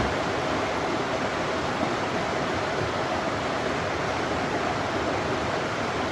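Steady rushing of water from a small river waterfall, an even, unbroken noise.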